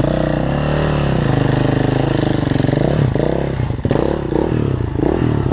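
Enduro dirt bike engine running at steady revs, then the throttle is eased off and opened again several times in the second half, the engine note falling and rising with it.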